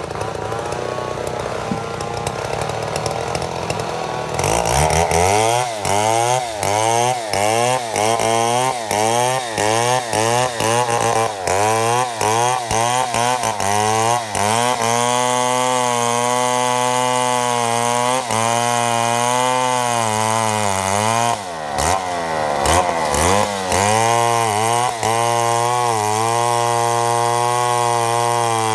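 Chainsaw milling a mahogany log. It runs quieter for about four seconds, then comes up to full throttle and cuts under load, its engine pitch rising and falling rhythmically about one and a half times a second. It drops briefly near the two-thirds mark, then recovers.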